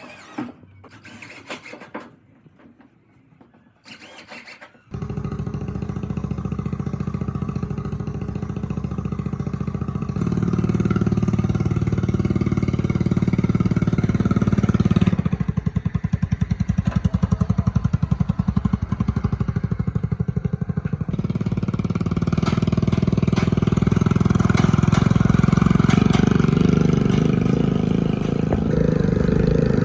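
A few knocks, then a small engine starts suddenly about five seconds in and runs with a rapid, even chugging beat, its speed changing several times.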